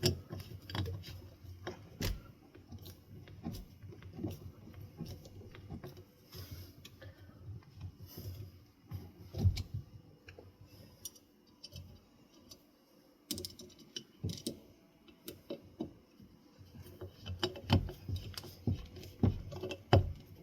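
Screws being driven by hand into a ceiling fan's metal housing: irregular small clicks and scrapes of the screwdriver and parts, with a few louder knocks, one about halfway through and several near the end.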